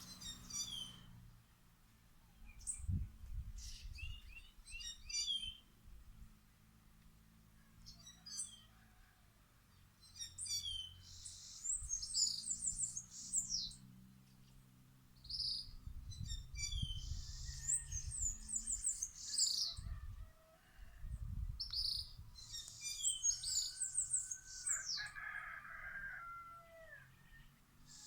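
Several wild birds singing, with short, high, quickly repeated chirping and trilled phrases coming again and again, and a lower call about 25 seconds in.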